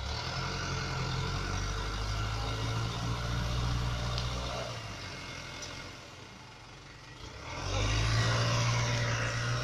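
Hino 300 dump truck's diesel engine running at a steady speed in two spells: about four and a half seconds, then a quieter lull, then louder again for about two seconds near the end.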